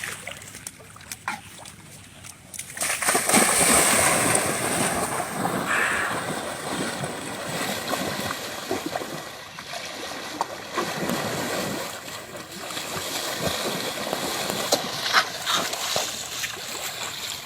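Pool water splashing and sloshing as a baby Asian elephant plays in it with a ball. The splashing is light at first, then becomes loud and continuous from about three seconds in.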